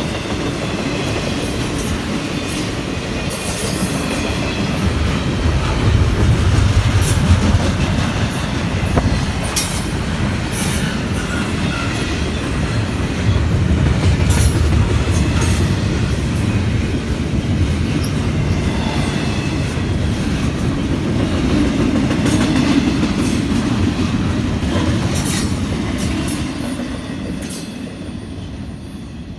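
Union Pacific Z intermodal train's double-stack container cars rolling past: a steady rumble of steel wheels on rail, with irregular clacks and some wheel squeal. It fades as the last car draws away near the end.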